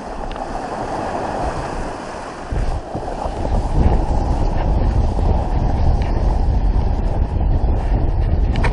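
Wind buffeting the microphone on a sailboat, over the wash of water; the wind rumble grows heavier about three seconds in and stays strong.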